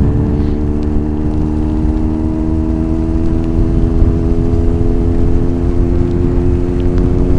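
Kawasaki ZX-9R's 900cc inline-four engine running at a steady low speed, its pitch held even throughout, over a low rumble.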